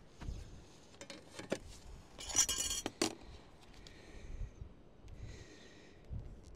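Light metallic clinks and taps of hand tools. There are a few single clicks, a quick cluster of clinks ending in a sharp knock about three seconds in, then two short scraping rubs.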